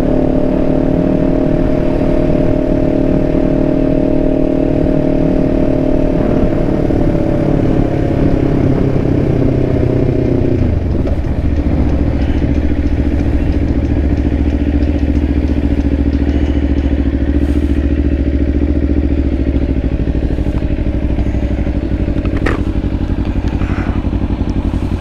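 Kawasaki Ninja 500's parallel-twin engine running steadily. About ten seconds in the revs drop and it settles to a lower, steady running note. Two short clicks come near the end.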